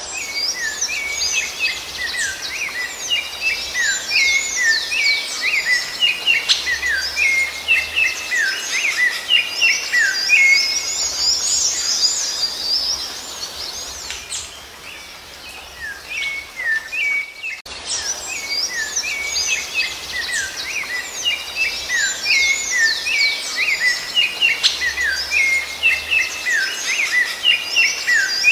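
Rufous-bellied thrush (sabiá-laranjeira) singing: a fast, continuous run of chirps and short whistled glides. The song fades briefly about halfway through, then starts again with the same passage.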